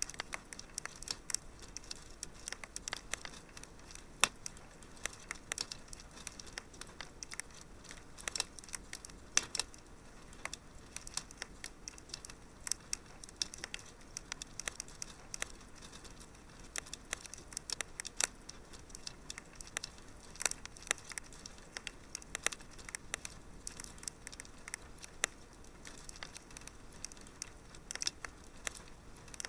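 Wood fire crackling in a fireplace: irregular sharp pops and snaps, a few louder ones standing out, over a faint steady hiss.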